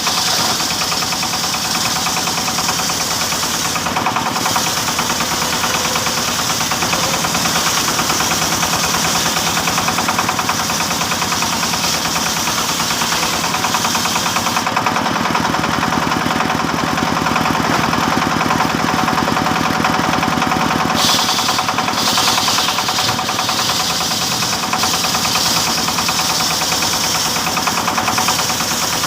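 Sawmill machinery running at a steady pace while sawing teak timber, an engine driving the saw with a continuous rapid beat and a high hiss over it. The hiss drops away for several seconds past the middle and then returns.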